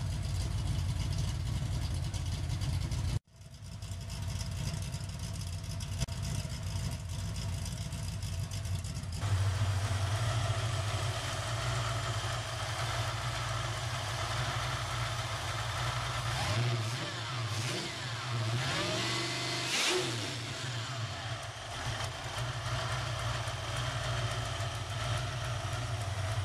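Supercharged 358 Windsor V8 with a B&M Roots blower and a solid roller cam running. It idles, with a sudden cut about three seconds in, then is revved several times, rising and falling, in the middle of the stretch.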